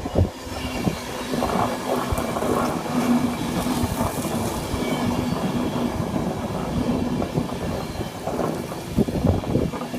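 Passenger train rolling slowly along the platform, its wheels clicking over rail joints, with a steady hum underneath.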